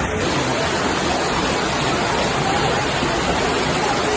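Floodwater rushing through a street in heavy rain: a steady, even rush of water with no letup.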